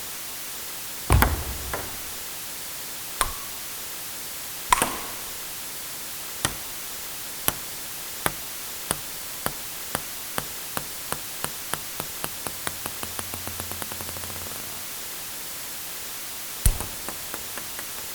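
Table tennis ball sounds: a few single sharp hits, then a celluloid ping-pong ball bouncing on a table, its bounces coming faster and faster until they run together and it comes to rest. Near the end another hit is followed by a few small quick bounces.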